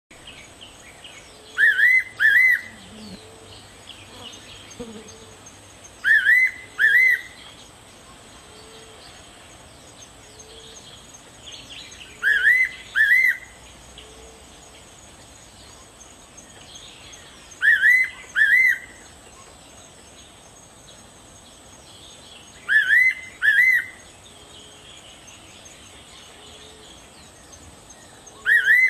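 Fairy pitta singing its two-note whistled song. The paired phrase repeats about every five seconds, with faint chirps of other birds between.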